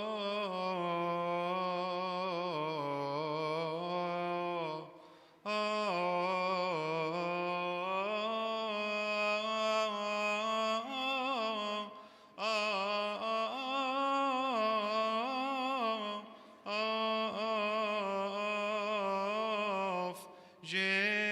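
A single male voice sings Coptic liturgical chant, drawing out one long wordless melisma with wavering ornaments. Short breath pauses break it into several long phrases.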